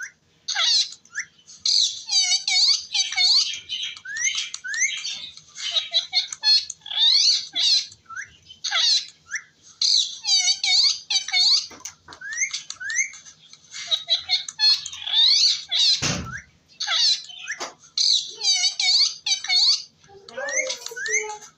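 Green parrot chattering and squawking in quick runs of short, high-pitched, mostly rising chirps. There is a single thump about 16 seconds in.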